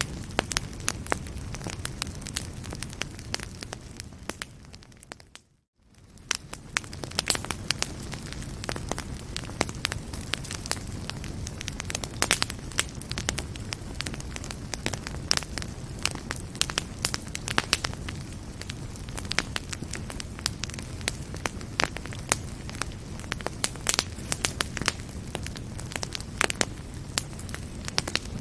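Fireplace fire crackling and popping in sharp, irregular snaps over a steady low rumble of flames. About five seconds in it fades down to near silence and straight back up.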